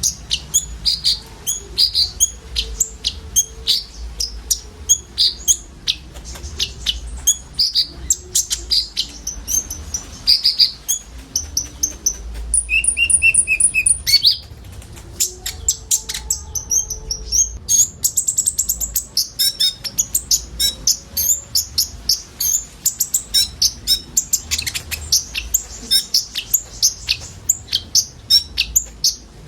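Several konin sunbirds singing together: a dense stream of quick, high chirps and twitters, with a few clear held whistles about halfway through and a rising trill soon after.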